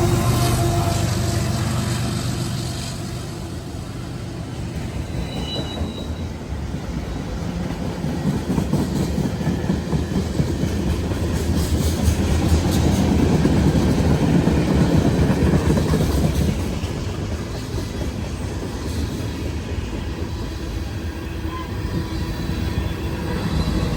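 A train rolling past on the tracks: a continuous rumble of wheels on rail that swells and then eases off.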